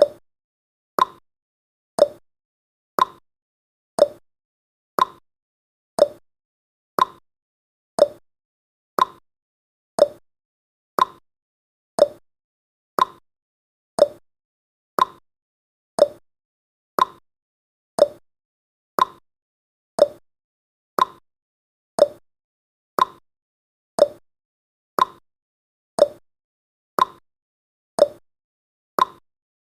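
Clock-tick sound effect of a countdown timer, one short sharp tick each second in a steady rhythm.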